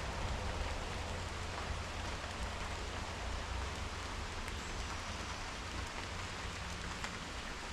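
Steady rain falling, with scattered drops ticking on a surface over a constant low rumble.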